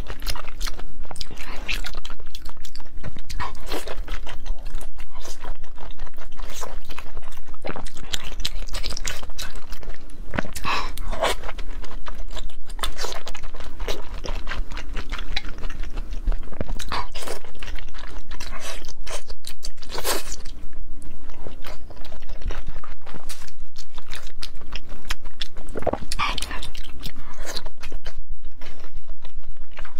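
Close-miked eating of thick raw salmon slices: loud, wet biting, chewing and mouth sounds in a dense, irregular run of clicks.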